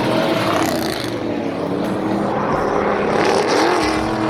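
Several race car engines running and revving at once, their pitch rising and falling, with a steady engine note underneath near the end.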